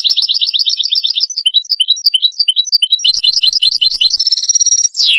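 European goldfinch singing: a burst of rapid twittering trills and separate chirps, with a brief high held note near the end and a falling note as it stops.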